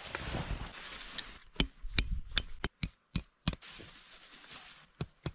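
Hammer knocking a tent stake in with sharp metallic strikes, about three a second, then a short pause before two more near the end.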